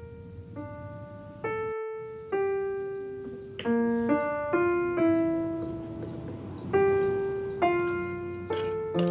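Background piano music: a slow melody of single notes, each struck and left to fade, coming in about once or twice a second from about a second and a half in.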